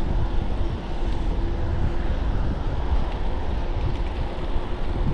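Wind buffeting the microphone and rolling road noise from a moving e-bike, a dense, steady rumble. A faint steady hum drops in and out over it.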